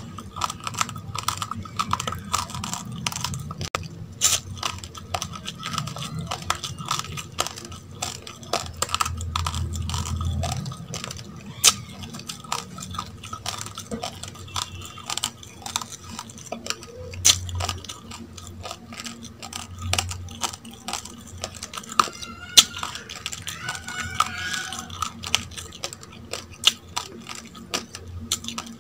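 Raw, uncooked rice being chewed: a rapid, continuous run of small, sharp crunches and cracks.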